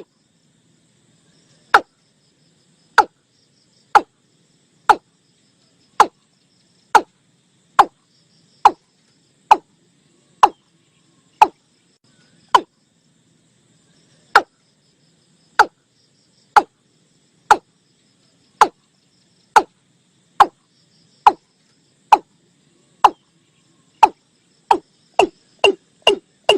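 Male watercock calling: a series of short, hollow notes, each dropping quickly in pitch, about one a second. The notes come faster near the end.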